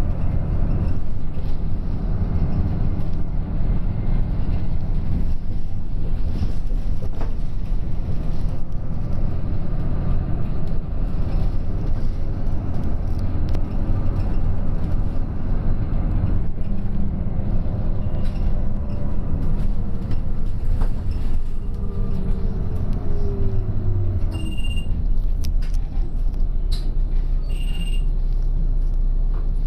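A Hinomaru Jidosha route bus running, heard from inside the cabin: steady engine and road noise. A whine falls in pitch over several seconds about two thirds of the way through, and two short high beeps sound near the end.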